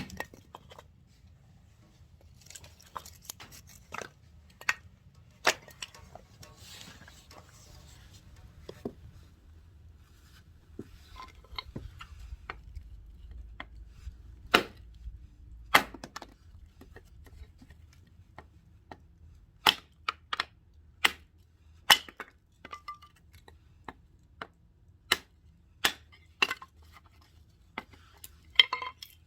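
Firewood being split by hand: a series of sharp, irregular knocks and cracks of a splitting tool striking and cleaving wood, coming closer together in the second half.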